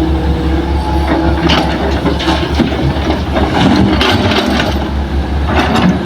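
Heavy diesel engine of earthmoving machinery running steadily with a low pulsing rumble, with a run of sharp clanks and knocks from about a second and a half in.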